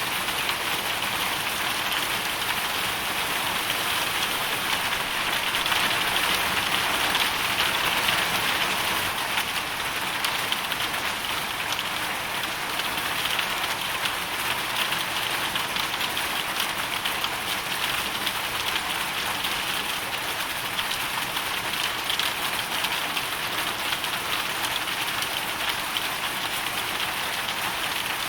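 Hailstorm: a dense, steady downpour of countless small hits from hailstones and rain striking a surface, swelling slightly about six seconds in.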